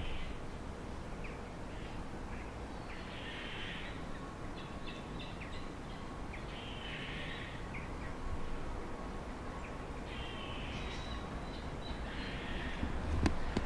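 A bird calling four times, each call under a second long and a few seconds apart, over steady outdoor background noise. A sharp click sounds near the end.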